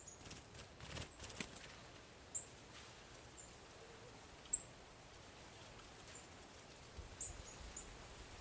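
Small birds giving short, sharp high-pitched chirps every second or so, with a quick run of faint rustling clicks in the first second and a half.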